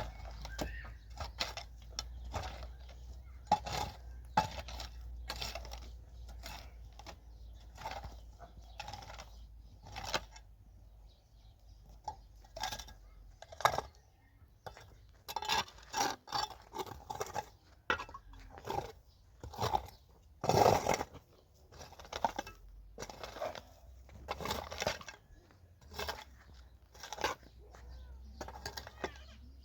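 Irregular clinks, taps and knocks of dishes and utensils being handled during food preparation, with a few louder knocks past the middle, over a low steady hum.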